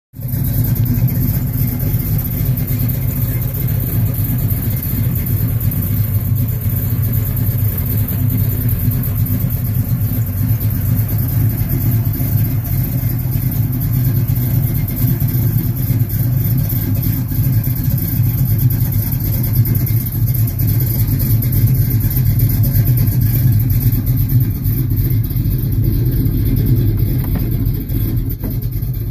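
Engine of a customized 1957 Chevrolet pickup idling steadily, an even low-pitched running sound with no revs.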